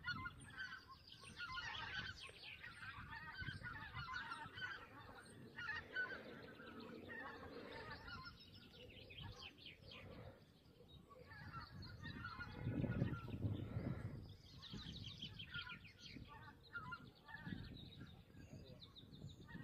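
Birds calling again and again in clusters, over a low rumble of wind on the microphone that swells about two-thirds of the way through.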